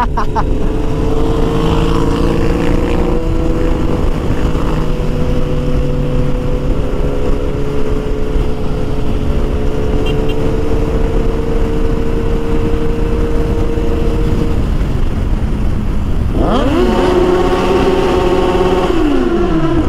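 Motorcycle engine running at a steady cruising speed over wind rush. About three-quarters of the way through it revs up sharply, holds at the higher pitch, then drops away near the end.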